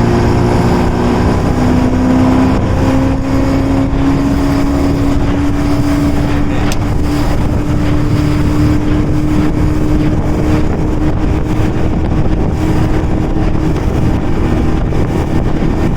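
Johnson 90 hp outboard motor accelerating, its pitch rising over the first few seconds, then running steadily at speed with the boat under way.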